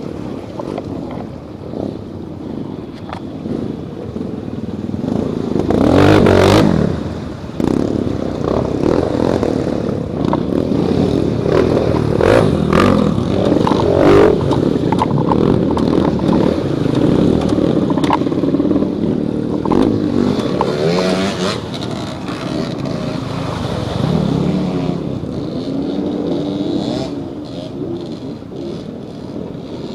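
Enduro dirt bike engines running and revving, the pitch rising and falling repeatedly, with the loudest burst of revving about six seconds in.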